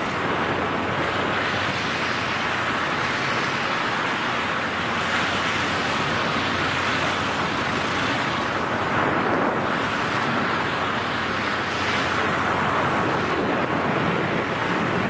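Steady rushing wind noise on the microphone of skydivers in freefall, without letup.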